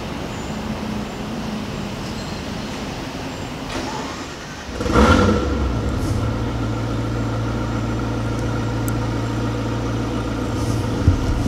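Ferrari F40's twin-turbo V8 starting about five seconds in, with a brief loud flare, then settling into a steady idle over low street noise.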